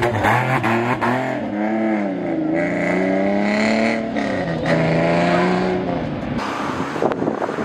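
TVR Sagaris's 4.0-litre straight-six accelerating hard away through the gears. The engine note climbs in pitch and drops back at each of about three upshifts.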